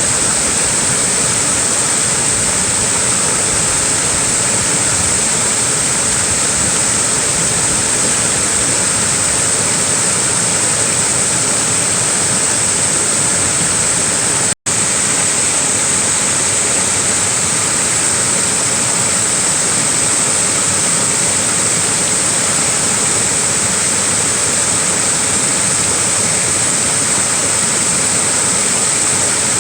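Small waterfall: a steady rush of falling water, broken once about halfway through by a split-second gap of silence.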